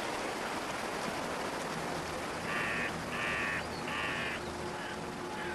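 A bird calling three times in quick succession, each call about half a second long, over a steady background hiss.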